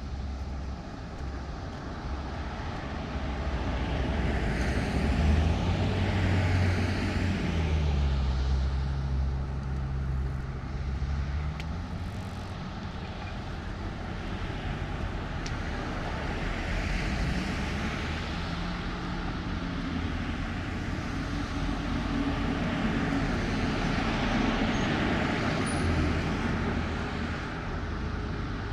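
Engine noise of passing motor vehicles on a residential street, swelling and fading several times over a steady low rumble. About a quarter of the way in, one engine tone drops in pitch and then holds steady for a few seconds.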